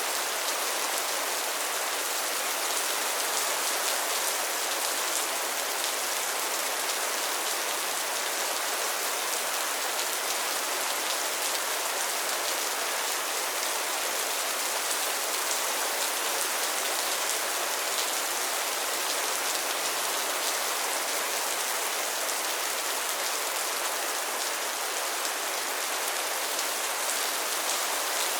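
Steady rain falling on a pond and its floating lily pads, a dense even patter of many fine drop hits.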